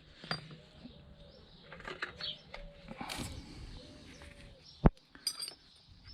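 A bird cooing softly in a run of repeated low phrases, with scattered clicks and one sharp knock about five seconds in.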